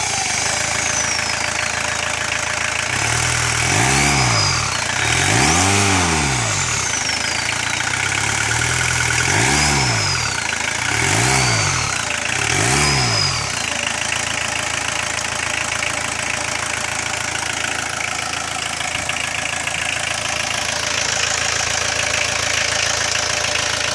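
Volkswagen Golf Mk2 1.6 engine revved up and let fall back about five times, then settling to a steady idle for the second half.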